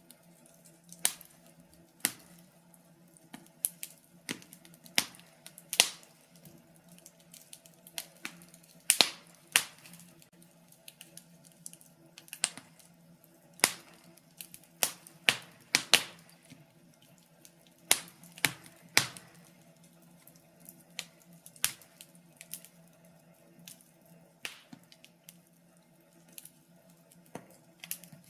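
Wood fire crackling: irregular sharp pops and snaps, one or two a second, some much louder than others, over a faint steady low hum.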